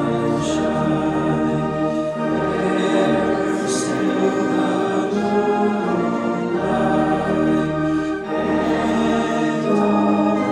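Worship music: voices singing with organ accompaniment, in sustained chords that change every second or two.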